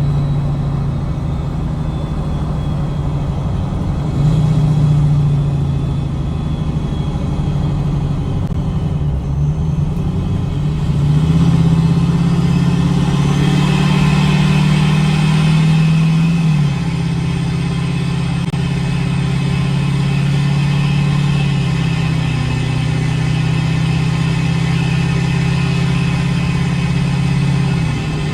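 Straight-piped Ford 6.4L Power Stroke V8 turbodiesel running loud and steady under load. Its note steps up and then drops suddenly several times, about four, eleven, sixteen and twenty-one seconds in, as the transmission shifts on a grade. A high whistle rises in from about the middle on.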